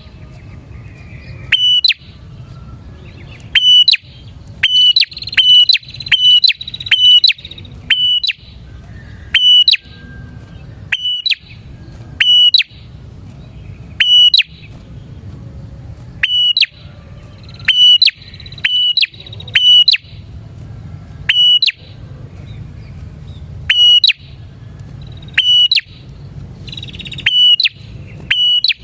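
Bar-winged prinia (prenjak) calling vigorously: loud, sharp, clipped notes repeated singly or in quick runs of two or three, over a steady low hum, with fainter bird calls behind.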